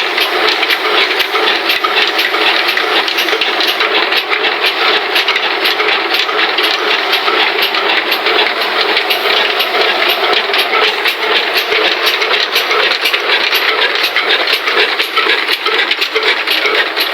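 Old atta chakki flour mill running, driven by an old Ruston black engine: a loud, steady, dense mechanical clatter with a regular ticking.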